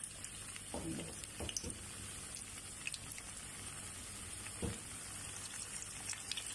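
Raw potato chunks sizzling in hot oil in a frying pan, a steady fizz with light crackles, and a few soft bumps as more pieces go into the pan.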